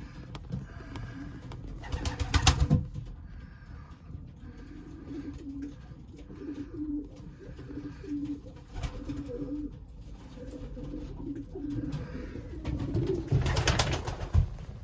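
Racing pigeons cooing in a loft, a run of short low coos repeating through the middle, with two louder rustling bursts, one about two seconds in and one near the end.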